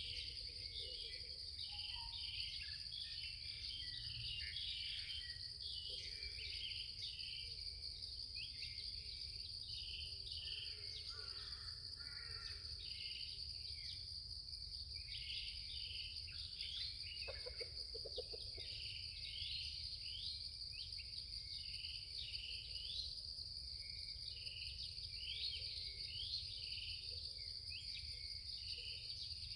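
Outdoor nature ambience: insects droning steadily at a high pitch while many birds chirp and call, over a low rumble. A brief lower, rapidly pulsed call comes about seventeen seconds in.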